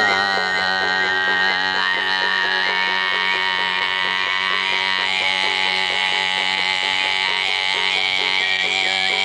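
Overtone (throat) singing: a steady buzzing drone with a high, whistle-like overtone melody held above it, stepping in pitch, over an even rhythmic strumming accompaniment.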